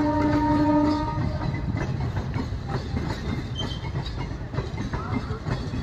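A train horn sounds one steady note that stops about a second in. A passing train then rumbles on, its wheels clattering over the rail joints.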